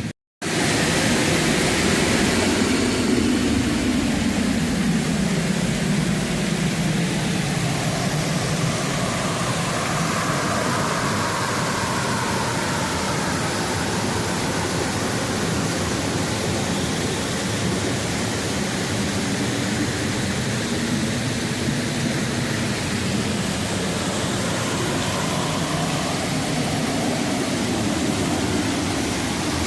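Steady rush of flowing water, a creek tumbling over rocks. It starts just after a brief dropout and then holds a constant level, with slow shifts in tone.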